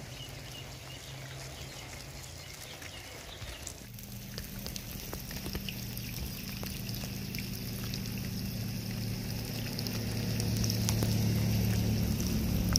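Steady rain, a constant hiss with many small drop ticks on water and wet surfaces. About four seconds in, a low steady hum comes in and slowly grows louder.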